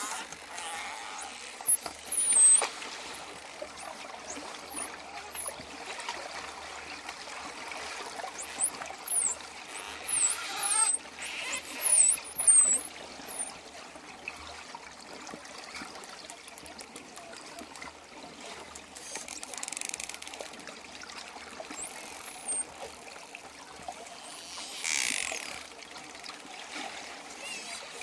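Dolphins whistling: clusters of short, high-pitched rising and falling whistles over a steady wash of water noise, loudest around the middle.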